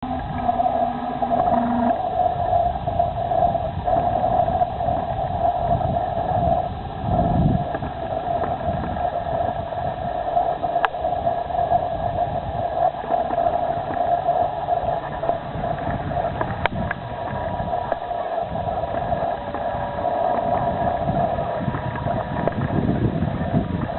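Motor of a model PT boat running steadily on the water, a constant whine, with an uneven low rumble underneath.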